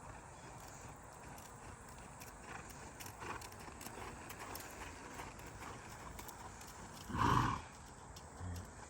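A ridden horse moving with faint, irregular hoofbeats, and one short loud sound from the horse about seven seconds in, followed by a smaller one near the end.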